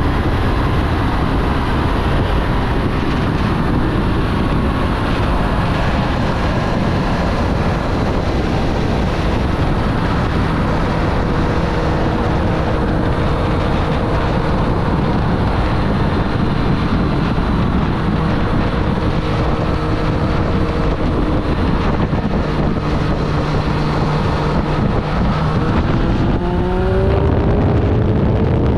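2024 Triumph Street Triple's inline three-cylinder engine running while riding, with wind noise on the microphone. The engine pitch sags slowly through the middle, then climbs near the end as the bike accelerates.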